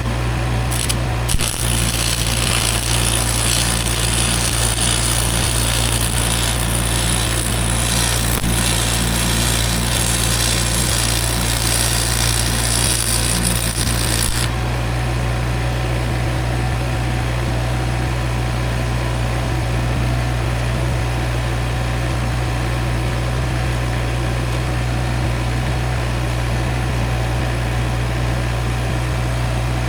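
Welding arc crackling and hissing steadily for about thirteen seconds, then cutting off abruptly, while an engine idles steadily underneath.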